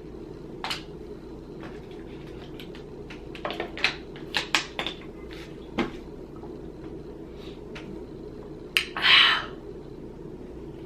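Boiled crawfish being handled and eaten: irregular sharp cracks and clicks of shells being broken and peeled, with a longer rustling, wet noise about nine seconds in.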